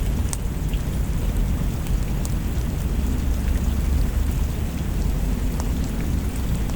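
Steady rain with a deep, continuous low rumble of thunder underneath, and a few scattered sharp crackles.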